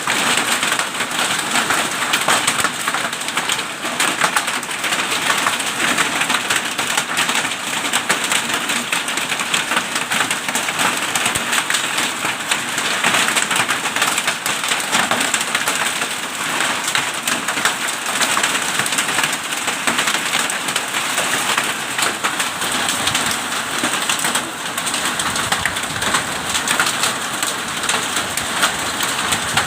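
Hail and heavy rain pelting down in a hailstorm: a loud, steady, dense patter of countless small impacts.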